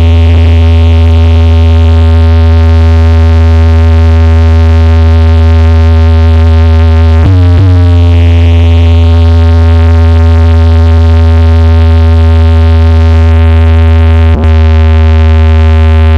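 Loud electronic music: a held synthesizer chord with heavy bass, played through a DJ sound system. It is broken by a sharp downward pitch sweep about seven seconds in and a briefer one near the end.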